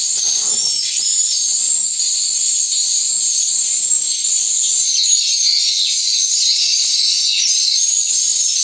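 Swiftlets' dense, continuous high-pitched chirping and twittering, steady and loud throughout.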